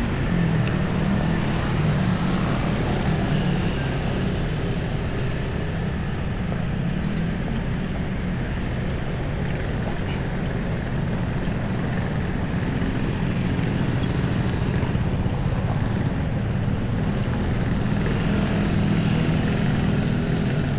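Steady street traffic noise, with the low hum of vehicle engines running throughout.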